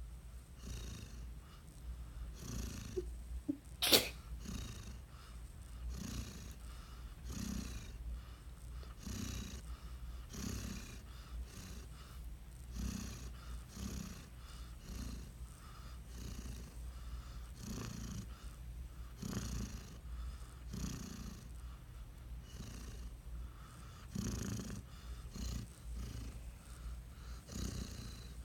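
Vizsla dog snoring, a snore about every second and a half, with a single sharp click about four seconds in.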